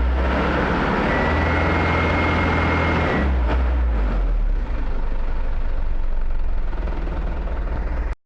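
Truck diesel engine idling steadily through an aftermarket HKS exhaust, with a hiss and a thin high steady tone for about two seconds early in the run; it cuts off abruptly near the end.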